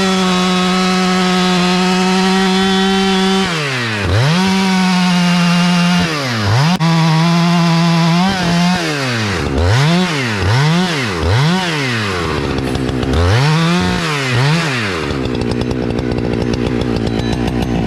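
Chainsaw revving at full throttle, cutting into a white oak trunk: one long run of about three seconds, two more runs, a quick series of four short throttle blips, one last rev, then the saw drops to a steady idle for the last few seconds.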